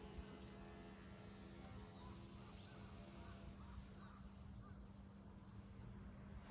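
Small wood fire burning quietly in a rusty can, with a few faint scattered crackles over a low steady background hum.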